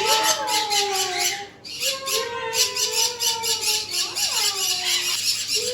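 Parrots squawking, harsh grating calls one after another with a short lull about a second and a half in.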